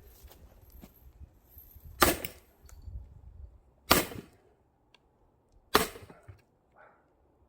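Axe striking a firewood log to split it: three sharp blows, about two seconds apart.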